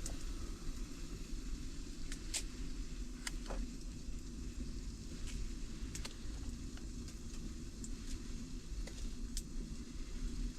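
Wood fire burning in a tent stove: a steady low rumble with scattered sharp crackles.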